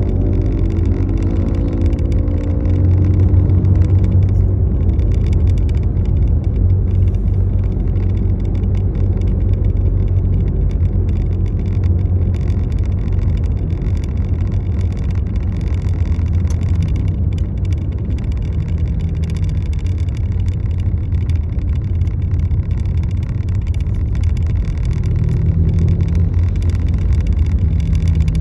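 Steady low rumble of a car on the move, with no distinct events.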